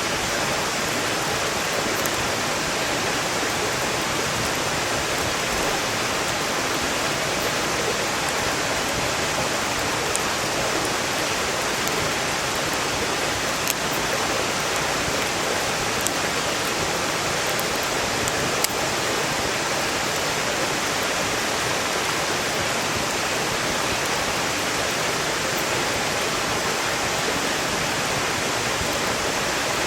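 Mountain valley stream rushing steadily, with a few sharp pops from burning firewood in a campfire.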